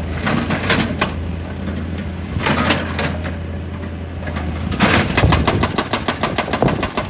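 Heavy diesel excavator engine running, with surges of hydraulic load. About five seconds in, rapid, evenly spaced hammering starts and keeps going: a hydraulic rock breaker striking rock.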